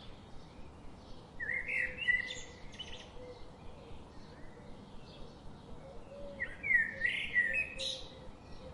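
A songbird singing two phrases of chirping, warbling notes, about a second and a half in and again about six seconds in, with fainter birdsong in between over a soft steady background hiss.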